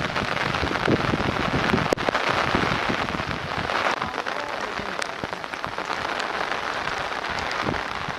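Heavy rain falling steadily, a dense patter of drops, with a single sharp click about two seconds in.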